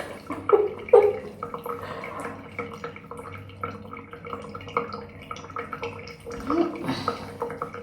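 Face being washed with water at a basin: irregular splashes and drips from cupped hands, over a faint steady tone.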